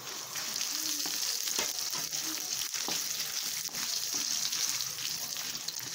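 Dried red chillies, ginger and whole spices sizzling in hot oil in a kadai, with a steady hiss. A wooden spatula stirs them, and its scrapes and taps on the pan make scattered short clicks.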